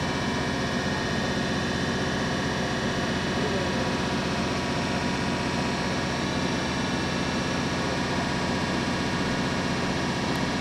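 Shinano Railway 115 series electric train: a steady running rumble and hiss with a few faint steady whines, holding even throughout.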